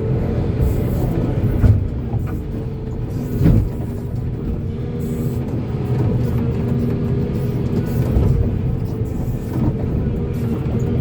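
Volvo excavator's diesel engine running steadily under load, with a few knocks, the loudest two in the first few seconds.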